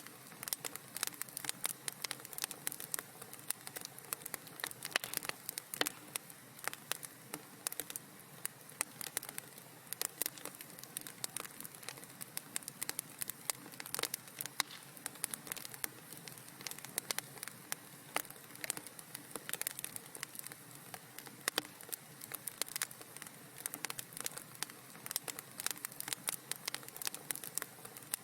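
Wood fire crackling steadily in a fireplace: dense, irregular sharp pops and snaps over a soft steady hiss.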